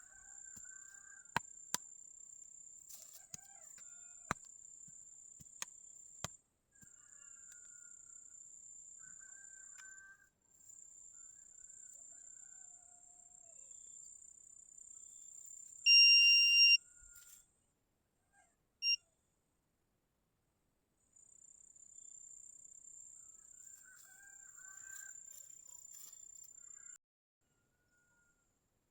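Insects chirping in a steady high drone that breaks off now and then, with a few clicks early on. About two-thirds of the way through, a metal detector gives a loud steady beep lasting about a second and a half, then a short second beep a few seconds later.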